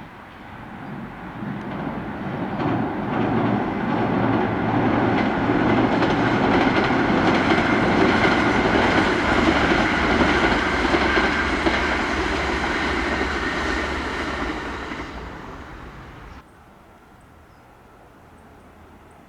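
Kintetsu electric train running past: the rail noise builds, stays loud through the middle, eases off, and then cuts off suddenly near the end.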